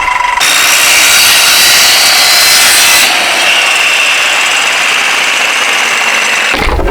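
A power tool cutting with a steady, loud whine that starts about half a second in, changes in tone about three seconds in, and stops shortly before the end.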